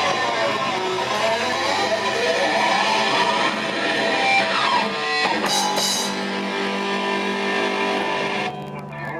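The closing bars of a rock band's song, led by electric guitar with sliding notes over sustained chords. It dies away about eight and a half seconds in.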